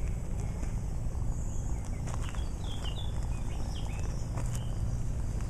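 Outdoor ambience: a steady low rumble of wind on the microphone, with a few short, falling bird chirps in the middle.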